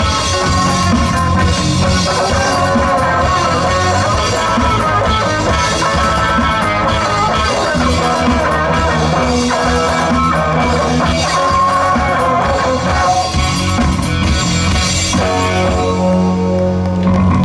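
Live rock band playing an instrumental passage, with guitar lines over bass and a drum kit, ending in a held chord near the end.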